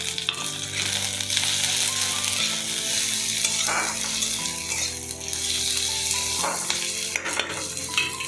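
Chopped onion, tomato and green chillies frying in hot mustard oil in a kadai: a steady sizzle, with a few brief stirring sounds.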